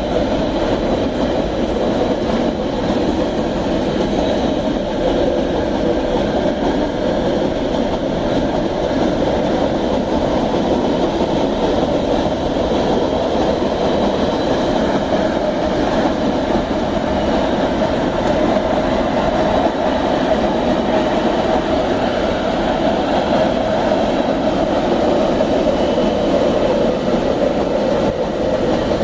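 Iron-ore freight train's wagons rolling past: a loud, steady rumble of steel wheels on the rails.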